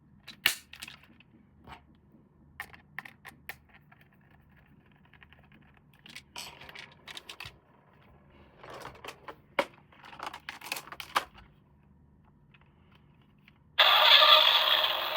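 Small clicks, taps and plastic rattles of a toy being handled, then about 14 s in a loud electronic sound effect from the toy's speaker switches on suddenly.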